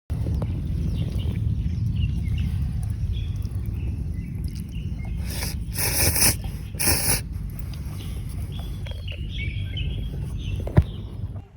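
Outdoor ambience with wind rumbling on the microphone and small birds chirping. About halfway through come a few brief scratchy noises, and a sharp click sounds near the end.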